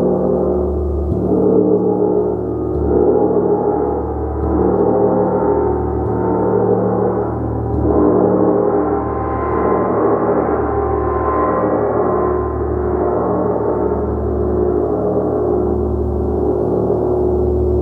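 A gong played continuously: a dense, sustained wash of overlapping ringing tones with a throbbing low hum, swelling every second or two as it is struck again and again before the ring dies.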